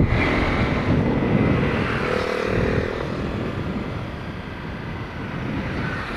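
Motorcycle running along the road with wind rushing over the action-camera microphone, gradually fading.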